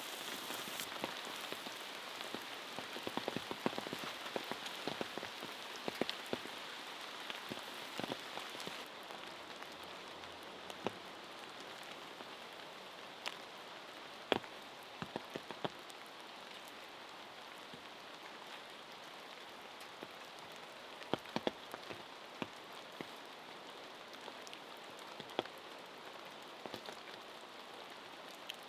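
Rain falling steadily, with single drops tapping sharply now and then; heavier for the first several seconds, then a little lighter.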